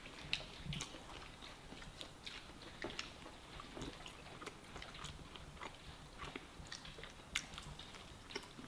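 Faint close-up chewing and biting of a bakwan, a fried Indonesian vegetable fritter, with many small mouth clicks and soft crunches scattered through.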